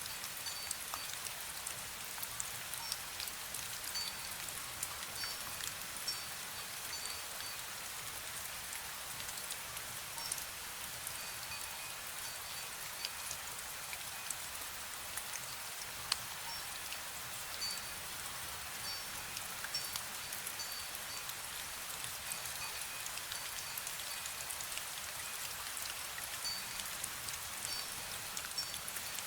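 Light rain pattering steadily, with many small drips and ticks of drops on surfaces. A wind bell gives faint, brief high tinkles several times.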